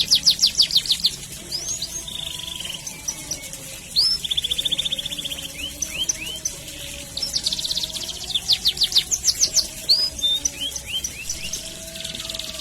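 Domestic canary singing a long, continuous song. Runs of quick falling chirps alternate with fast, tight rolled trills.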